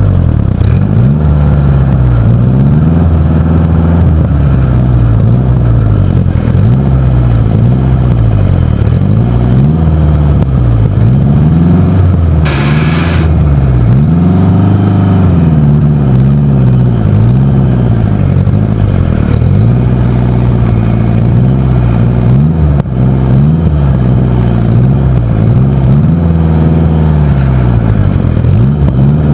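Pulling tractor engine revving up and down over and over, each rev lasting about one to two seconds. A brief hiss cuts in about halfway through.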